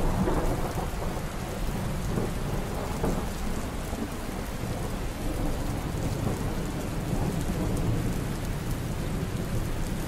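Steady rain with a low, rolling rumble of thunder.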